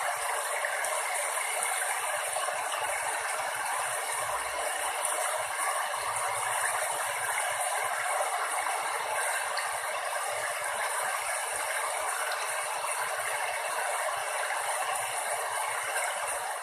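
Steady noise of rushing water.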